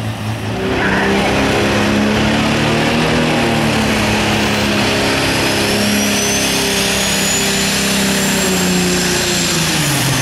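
Turbocharged Super Stock diesel pickup under full throttle pulling the sled: a loud, steady engine drone with a high turbo whistle that rises, holds and then falls. The engine's pitch drops near the end as the pull winds down.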